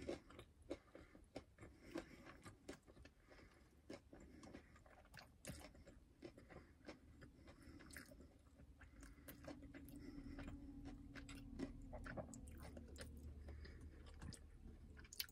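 Faint chewing of a battered Korean corn dog, with soft bites and irregular crunching and mouth clicks. A faint low steady hum joins in the second half.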